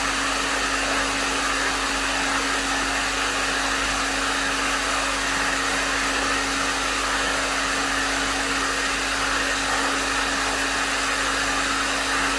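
Hair dryer running steadily, an even rush of blown air over a steady motor hum.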